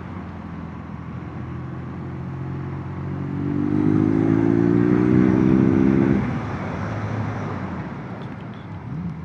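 Motorcycle engine under way, revving up through the gear from about three seconds in and dropping off sharply a little after six seconds as the throttle closes, over a steady rushing noise.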